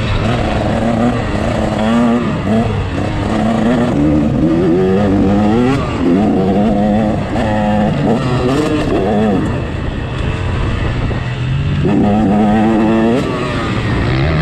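Motocross bike engine revving hard and dropping back over and over as it is ridden round a track, its pitch climbing and falling about half a dozen times, with a brief easing about two-thirds of the way through before a long high-revving run.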